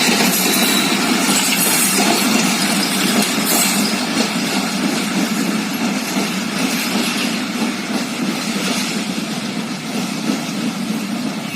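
Diesel-hauled broad-gauge passenger train rolling out of the station, a steady rumble of running gear and engine that slowly fades as it draws away.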